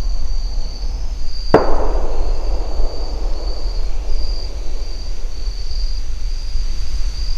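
A single gunshot about one and a half seconds in, a sharp crack whose echo rolls away over a second or two. Crickets chirp steadily throughout.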